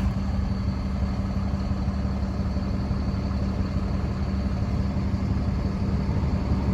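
Class 47 diesel locomotive's Sulzer V12 engine running light, with a steady low drone that grows slightly louder near the end.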